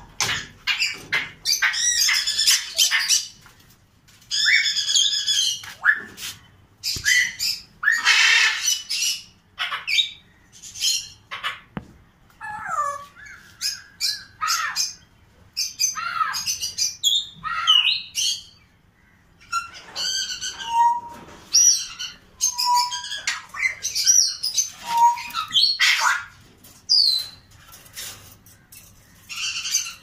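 Caged pet birds, cockatiels among them, calling in a busy run of harsh squawks and chirps, with a few short clear whistled notes about two-thirds of the way through.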